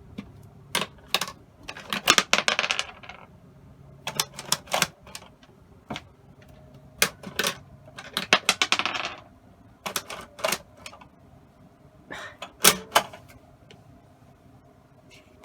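Plastic clicking and rattling from the Flushin' Frenzy toy toilet game being flushed: a series of sharp single clicks, with three short bursts of rapid rattling spread through.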